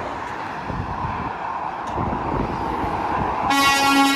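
A lorry passing on the road, then about three and a half seconds in a truck's air horn sounds one loud, steady blast.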